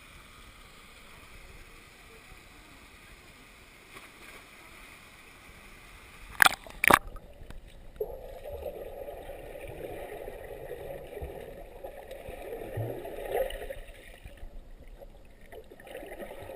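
Stream water sloshing and gurgling around a GoPro camera, with two sharp knocks on the camera about six and a half seconds in; from about eight seconds the water sound turns louder and muffled.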